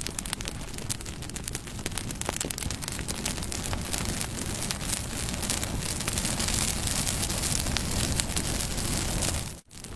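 Wood fire crackling and popping steadily with many sharp snaps. The sound cuts out for a split second near the end, then resumes.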